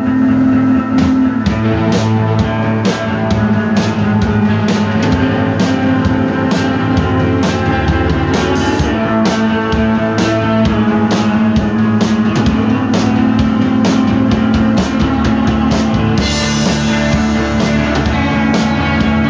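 Rock music with guitar and a drum kit keeping a steady beat, with a cymbal wash near the end.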